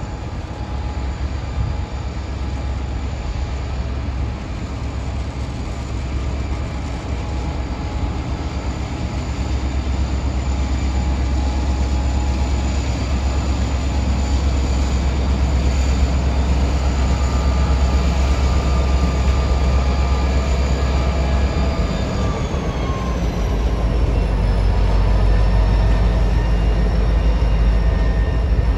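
Diesel train running past: a steady low rumble with engine tones that grows louder, then all the tones drop in pitch together about 23 seconds in as it goes by.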